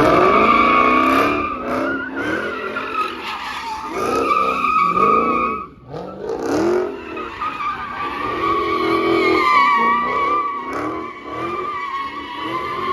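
A car's tires screeching continuously while it slides through donuts or a drift, its engine revving up and down underneath. The screech breaks off briefly about six seconds in, then picks up again.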